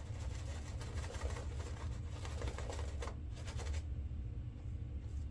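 A shaving brush working soap lather on the face: a fast, scratchy swishing that eases off about four seconds in.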